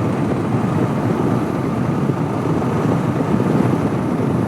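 Steady riding noise from a 2014 Honda CB500X's parallel-twin engine at a constant pace, mixed with wind rushing over the microphone.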